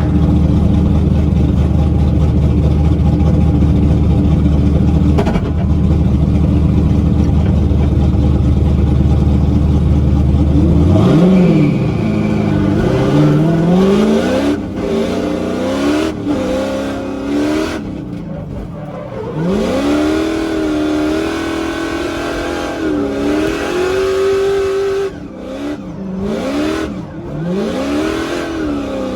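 Drift car engine running loud at one steady pitch for about ten seconds, then revving up and down over and over as the throttle is worked.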